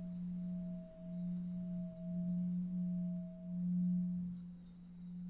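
Low, sustained meditative drone tone that swells and dips about once a second, with a fainter higher tone above it that dies away about four seconds in.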